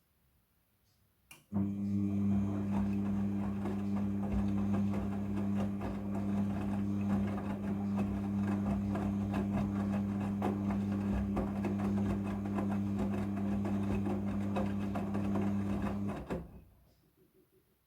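Midea front-loading washing machine turning its drum in the wash-scrubbing cycle: a click, then the drum motor starts with a steady hum and the clothes tumbling, running about fifteen seconds before it stops.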